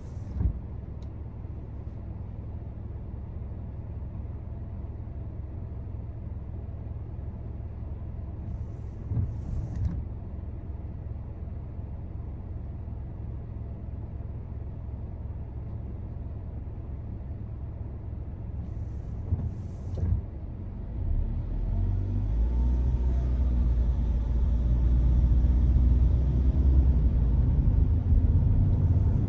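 Car on the move, a steady low rumble of road and engine noise that grows much louder from about two-thirds of the way through as the car picks up speed. A brief sound recurs about every ten seconds.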